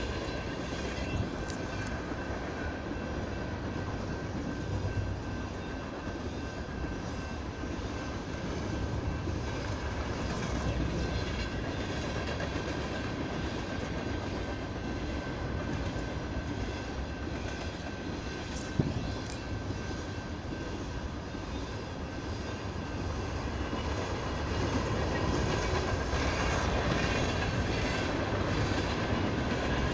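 Freight train of loaded grain hopper cars rolling steadily past at speed: a continuous rumble of wheels on rail, with a steady high tone over it. There is one sharp knock about two-thirds of the way through.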